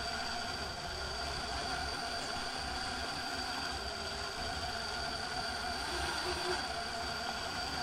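RC rock crawler's electric motor and gear drivetrain whining steadily as the truck crawls against the top of a steep ramp.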